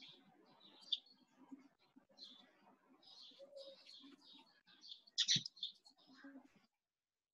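Small birds chirping faintly in the background: a quick run of short, high chirps, with one louder sharp sound about five seconds in. The sound cuts out just before the end.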